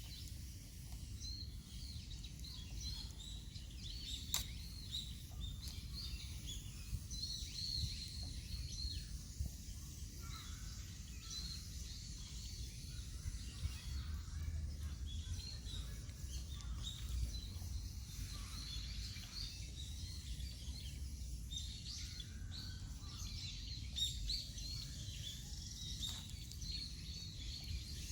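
Birds chirping outdoors over a steady low rumble, with an occasional sharp click.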